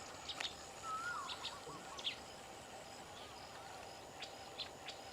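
Faint outdoor ambience with birds calling: a short warbling whistled call about a second in and a few brief chirps scattered through, over a low steady background hiss.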